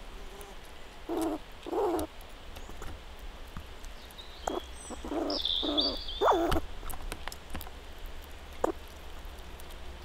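Birds calling: five short, low, rough calls, two about a second in and three more in quick succession around five to six seconds, with a brief higher song phrase over the middle calls. A few sharp clicks come between them.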